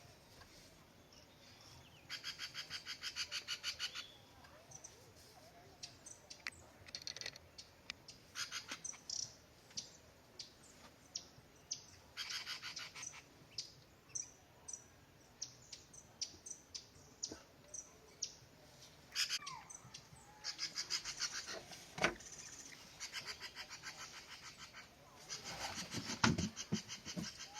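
Birds calling and chirping, with short high notes throughout and several rapid rattling trains of about one to two seconds each.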